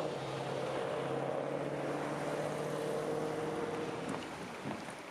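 Steady engine hum and road noise of a moving car, dropping away about four seconds in.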